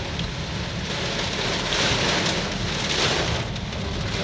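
Heavy rain pouring down in strong, gusting wind, a dense steady hiss that swells louder about two and three seconds in.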